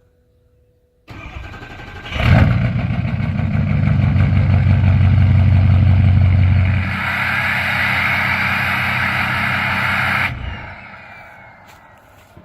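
Ford 6.0 Power Stroke V8 turbodiesel cranking for about a second, then catching and running loudly, heard from the exhaust; this is the first start after an oil change, while oil pressure builds. The sound changes character partway through and cuts off sharply near ten seconds in, then fades away.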